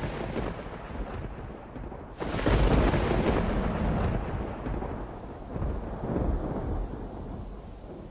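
Thunder from an aquarium's storm-simulation sound track: rolling rumble, with a fresh clap about two seconds in that rolls on and slowly dies away.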